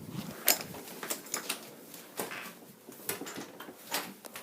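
Scattered light clicks and knocks at irregular intervals, like handling and movement noise.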